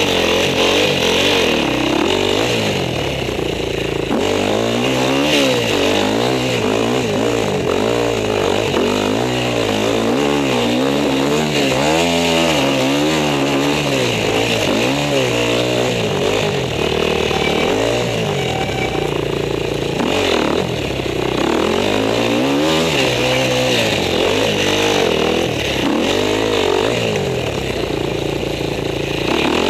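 Husqvarna enduro motorcycle engine heard from the rider's helmet, revving up and dropping back over and over as the throttle is opened and closed on a snowy trail.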